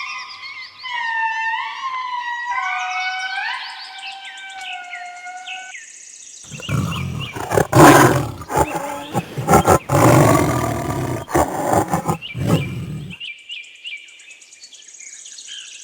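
Lemurs calling: a run of rising, wavering wails for the first six seconds, then a loud, harsh, raucous chorus of calls for about six seconds, dropping to faint high chirping calls near the end.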